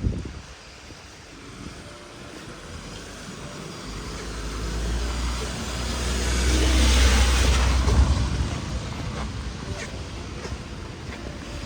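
A vehicle passes close by on the rain-soaked street. It builds over a few seconds to a peak past the middle, then fades, with a deep rumble and the hiss of water under its wheels over steady rain.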